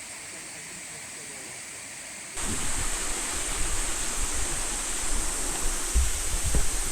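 Steady rushing of a waterfall, fairly faint at first, then jumping suddenly much louder and fuller about two seconds in, with a low rumble underneath.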